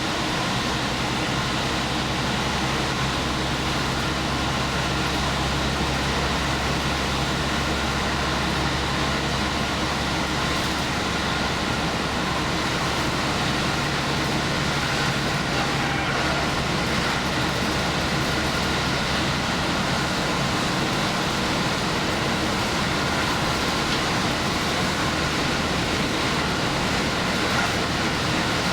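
Diesel limited express train running at speed, heard from inside the train: continuous wheel-and-rail running noise over a steady low engine hum that eases briefly a few times.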